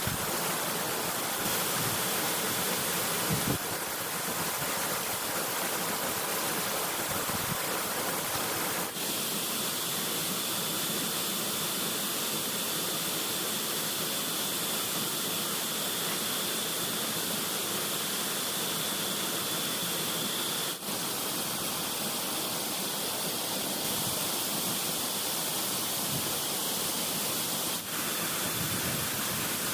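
Steady, even hiss of water noise: the sound of rain or flowing water in the woods.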